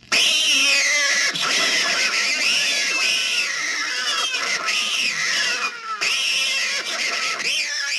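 Recorded sound effect of cats yowling and caterwauling: many overlapping wailing calls that rise and fall in pitch, starting abruptly and going on without a break.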